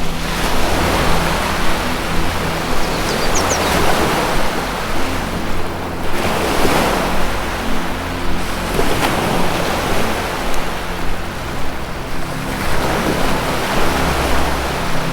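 Ocean surf washing ashore in repeated swells, over a low sustained music drone. A brief high bird chirp sounds a little over three seconds in.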